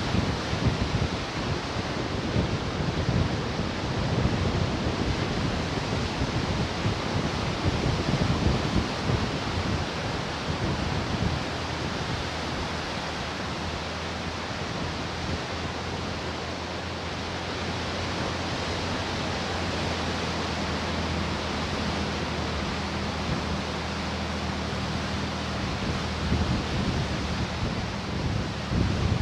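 Ocean surf washing ashore in a steady hiss, with wind buffeting the microphone in gusts during the first half.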